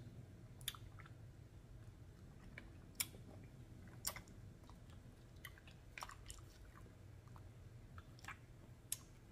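Faint close-up chewing of sticky noodles in black bean sauce, with about eight sharp mouth clicks and smacks scattered through it.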